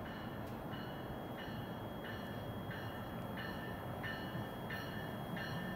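Amtrak Northeast Regional train approaching the station with a faint low rumble, while a high ringing tone repeats evenly about three times every two seconds.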